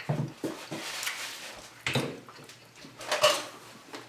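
Someone eating up close to the microphone: a run of irregular crunches and clicks. The loudest come about two and three seconds in.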